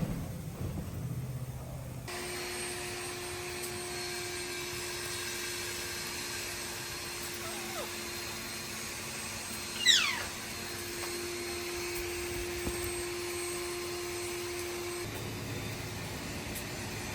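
An Indian ringneck parrot gives one short, loud call that sweeps steeply down in pitch about ten seconds in, over a steady hum with a faint hiss that stops a couple of seconds before the end.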